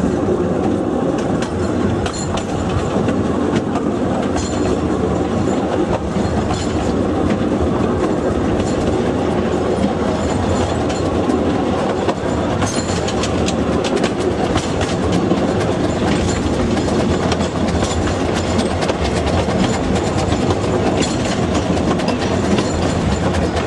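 Two-foot narrow-gauge train cars rolling along the track, heard from on board: a steady loud rumble with many small clicks from the wheels and rails.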